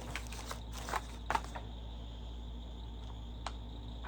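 Light clicks and knocks from handling a power cord and plug at a wall socket. They cluster in the first second and a half, with one more click later, over a steady low hum.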